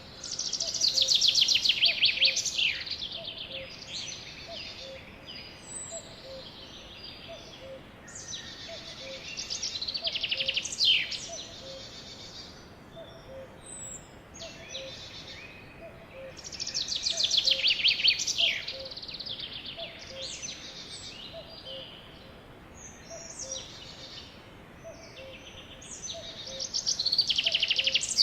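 Sparrows singing: loud, rapid trilled song phrases that recur about every eight seconds, with softer chirps between them. A faint regular tick, about once a second, runs underneath.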